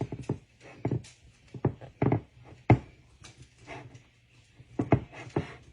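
Irregular light knocks and taps of hands and a pan as pie crust is pressed into the bottom of a baking pan.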